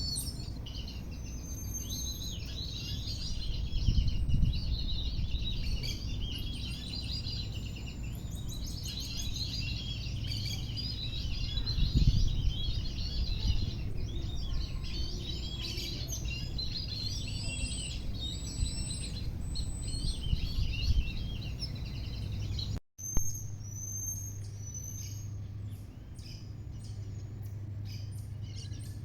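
Many wild birds chirping and calling together in a dense chorus, with clear whistled notes above it and two low rumbles on the microphone. About three quarters of the way through, the sound cuts out for an instant. It resumes with sparser, higher whistled calls over a steady low hum.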